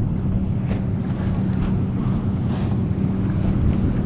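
A boat's motor running with a steady hum, under wind noise on the microphone and the wash of waves on open water.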